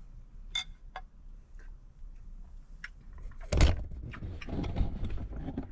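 Cutlery on a plate as a steak is cut: a few light clicks, then about three and a half seconds in a louder stretch of knife scraping and knocking.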